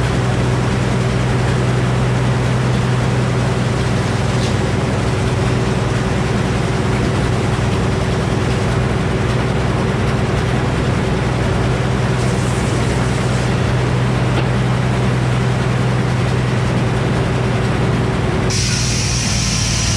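Old Frick circular sawmill running steadily with a constant hum. Near the end the sound changes sharply to a higher, hissing tone as the blade goes into the poplar log.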